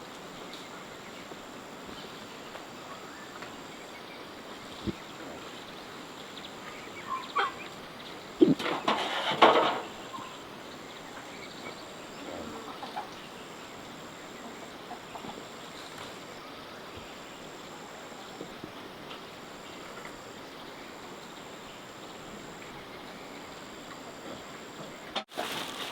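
Farmyard poultry calling in short bursts, loudest about eight and a half to ten seconds in, with a few quieter calls before and after, over a steady outdoor hiss.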